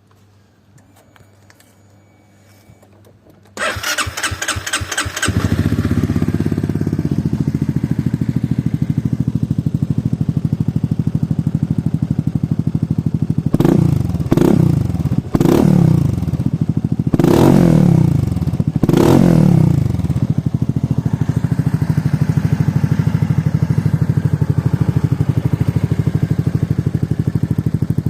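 Honda SH300 scooter's single-cylinder engine with an aftermarket exhaust being started: a short crank about three and a half seconds in, catching and settling to a steady idle. Four quick throttle blips follow, each rising in pitch and falling back to idle.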